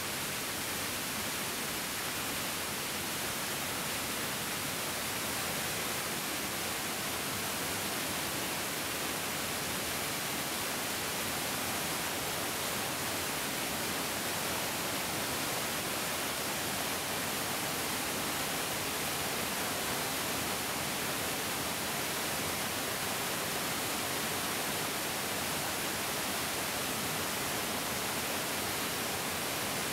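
A large mountain stream rushing and splashing over rocks in a steady, even hiss with no let-up.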